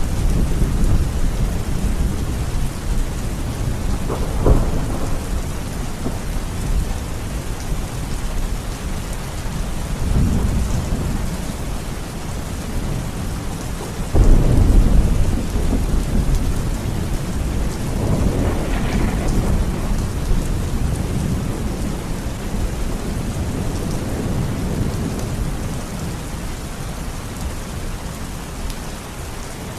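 Steady heavy rain falling, with several low rolls of thunder rumbling through it, one sharp clap about four seconds in and the loudest roll about halfway through.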